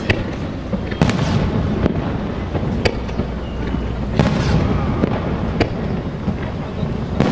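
Aerial fireworks bursting, a sharp bang roughly every second or so over a continuous low rumble from the display.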